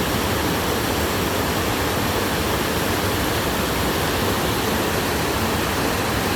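Waterfall rushing: a steady, even rush of falling water, close to the microphone.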